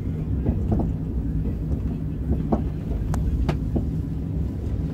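Cabin noise inside a KTX high-speed train rolling along the track: a steady low rumble, with a few sharp clicks in the middle.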